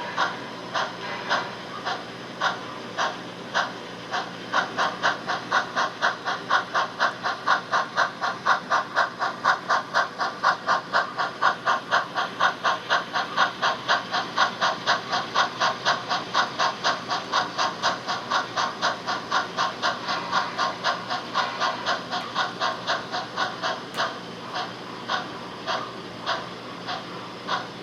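Steam exhaust chuffs from an HO-scale model steam locomotive's sound system. The beat quickens from a little over one chuff a second to about four a second as the engine gets moving, then slows again as it eases off. A faint steady hum runs underneath.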